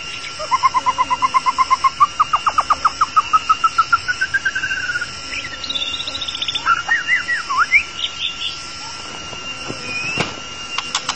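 White-rumped shama singing: a fast run of repeated whistled notes, about five a second, stepping up in pitch over the first five seconds, then a short high trill and a few swooping whistles. A faint steady whine runs underneath, and a single sharp click comes near the end.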